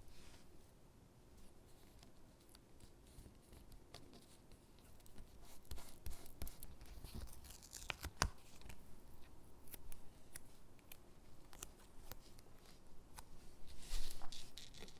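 Close-up paper sticker sounds: stickers being peeled off a backing sheet and pressed onto paper gingerbread cutouts. Irregular small clicks and rustles, busier in the middle, with a louder rustle near the end.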